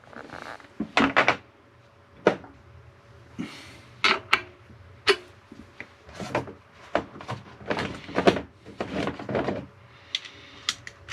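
A string of irregular knocks and clunks, a dozen or so, over a faint steady hum, in a small room.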